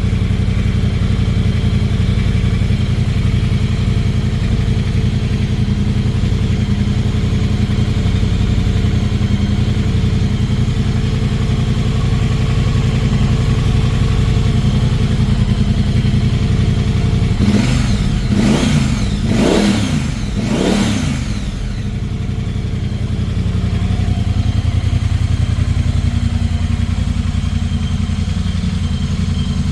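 2021 Triumph Speedmaster 1200's 1200 cc parallel-twin engine idling steadily, then revved three times in quick succession about two-thirds of the way through, each rev rising and falling back, before it settles to idle again.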